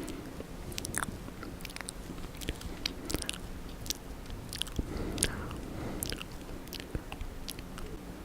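Close-miked ASMR mouth sounds: wet lip and tongue smacks and clicks, a dozen or so at irregular intervals, as in ear licking.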